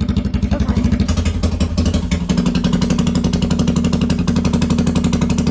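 Honda Rancher 420 ATV's single-cylinder engine running at idle with a fast, even putter, its tone shifting slightly about a second in and again a little after two seconds.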